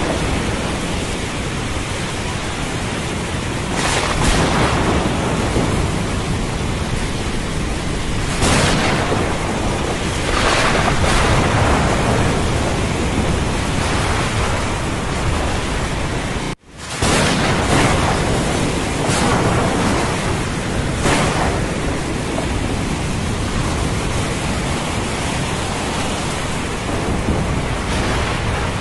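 Heavy steady rain of a thunderstorm, with several swells of thunder rumble over it. The sound cuts out for a moment about halfway through, then comes straight back.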